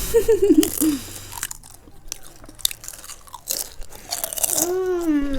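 Crunchy potato chips being bitten and chewed close to the microphone, a run of sharp crunches. Someone hums a wavering note in the first second and a long steady 'mmm' near the end.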